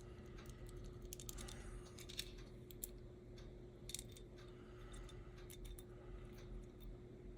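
Light clicks and small taps of tiny metal parts and a hand tool being handled while the pickup shoes are fitted to an HO-scale slot car chassis, in a cluster about a second in and again around four seconds. A faint steady hum runs underneath.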